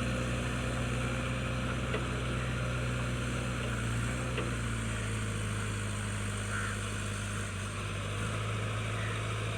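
A JCB 3DX backhoe loader's diesel engine running steadily, its engine speed easing down slightly about four seconds in.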